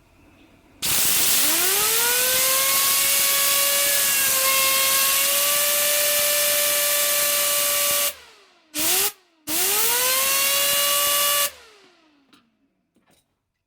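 Computer-fan generator spun up by a loud hiss of blown air: its whine rises quickly and holds steady, the air cuts off twice with a short blast in between, and after the air stops for good the whine glides down as the fan spins down.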